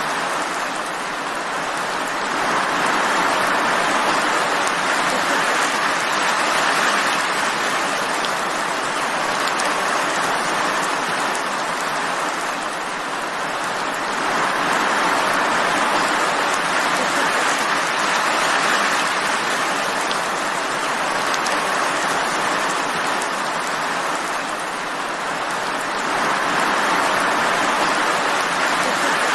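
Steady rain falling, an even hiss that swells and eases gently about every twelve seconds.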